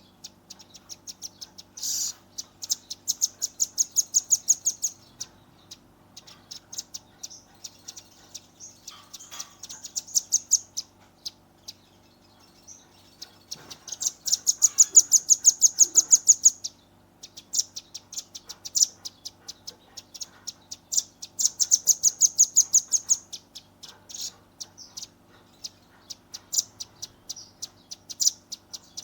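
Velvet-fronted nuthatch giving its rapid-fire 'tembakan' call: runs of sharp, high, ticking notes at about eight a second, each run lasting two to three seconds, with scattered single notes between the runs.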